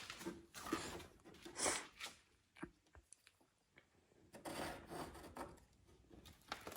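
Faint rustling and handling noises in short soft bursts, with a few small clicks in between.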